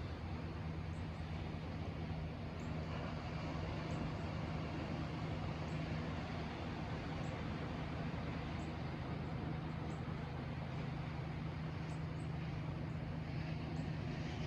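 Steady outdoor rushing noise with a low hum underneath, like distant traffic, and faint brief high chirps scattered through it.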